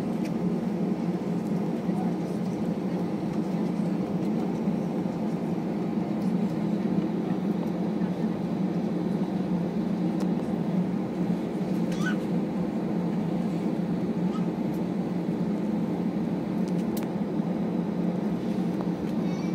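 Steady cabin hum and rumble inside an Airbus A321 on the ground before takeoff: engine and air-conditioning noise. A brief faint high squeak comes about twelve seconds in.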